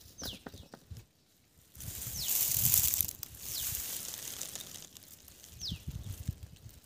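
A bird repeats a short, falling high whistle several times, about every one to two seconds. Near the middle a loud rush of hiss swells for about a second, with a low rumble under it.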